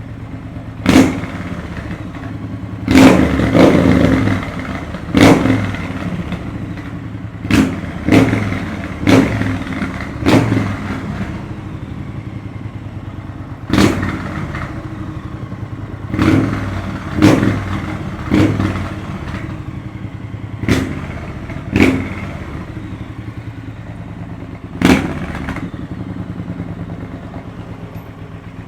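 Triumph T120 parallel-twin engine with a Zard exhaust, idling and blipped sharply on the throttle about fourteen times, each rev falling quickly back to idle.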